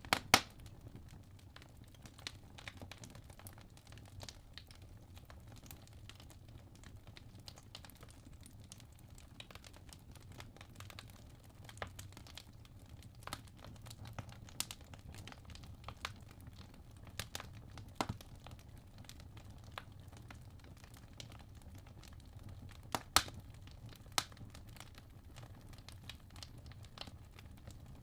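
Wood logs burning in a fireplace: a low steady rumble of flame with irregular sharp crackles and pops, the loudest just after the start and about 23 seconds in.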